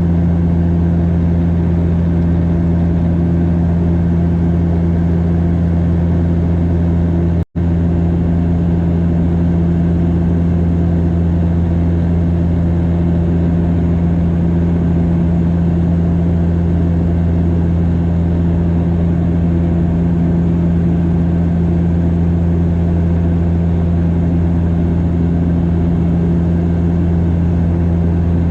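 Cabin drone of a Bombardier DHC8-Q400's turboprop engines and propellers, a steady low hum with deep, even propeller tones. The sound cuts out for an instant about seven seconds in.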